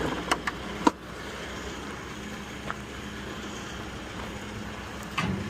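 A vehicle engine running steadily, with a few sharp clicks and knocks in the first second and a louder knock near the end.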